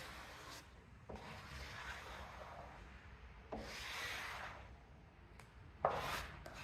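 Rubbing strokes pressing a wet vinyl decal down onto a lawn tractor body panel, several separate strokes with a longer, louder one about halfway and a sharper one near the end.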